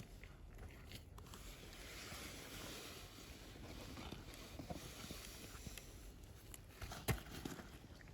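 Campfire crackling faintly, with one sharp pop about seven seconds in.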